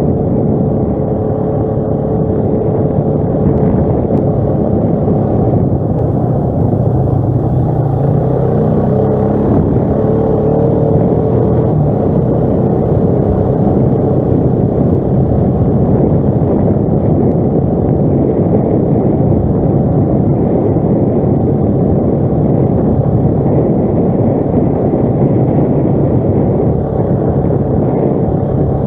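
ATV engine running steadily while riding, its pitch wavering a little with the throttle partway through.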